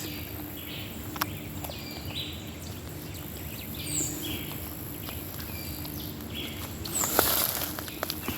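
Parakeets calling: short, high calls that drop in pitch, heard twice, among other repeated chirps. A brief rustling noise about seven seconds in.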